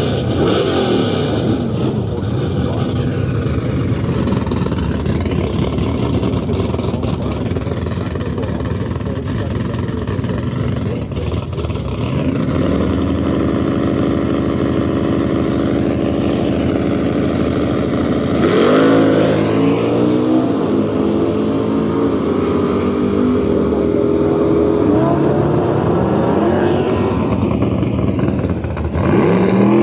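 Loud drag-racing V8 engines running with a lumpy idle, with sharp revs about two-thirds of the way through and again near the end.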